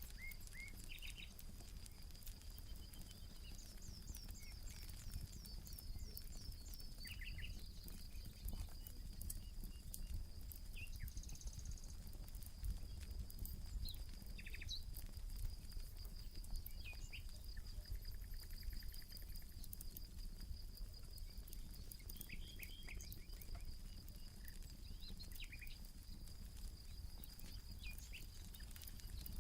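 Rural nature ambience: a steady, high-pitched insect trill throughout, with repeated bird chirps and calls, and a campfire crackling with fine scattered pops over a low rumble.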